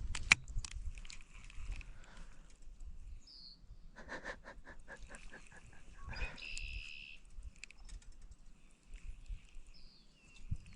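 Faint outdoor background with scattered bird calls: short high chirps, a quick run of rapid ticking notes, and one brief higher call. There are a few sharp clicks at the very start.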